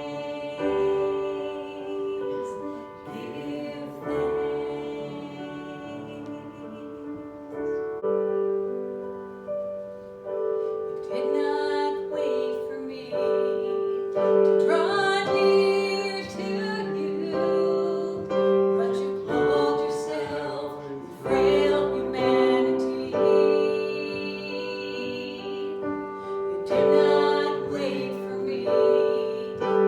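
Slow song: singing with piano accompaniment, in long held notes. The singing grows louder about a third of the way in.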